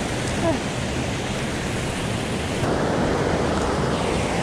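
Swollen mountain stream rushing and roaring, a steady wash of water noise. The sound shifts slightly lower about two and a half seconds in.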